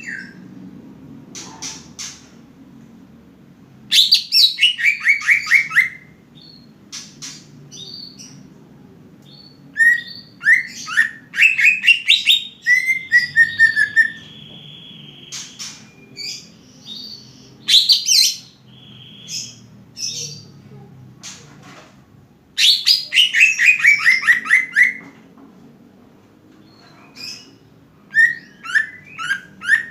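Cucak ijo (green leafbird) singing: repeated bursts of rapid notes that slide down in pitch, separated by short pauses, with one longer steady whistled note about halfway through.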